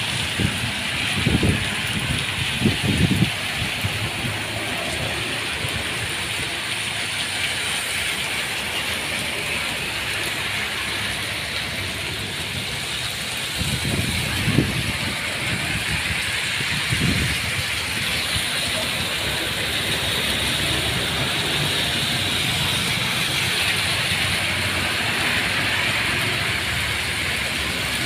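Steady rain falling, with vehicles passing by on the wet road a few times, twice near the start and twice around the middle.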